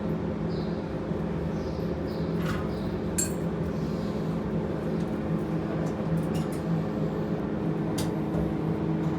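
Inside the cab of a Dover hydraulic elevator modernized by Diamond, riding down: a steady hum with a few light clicks and creaks.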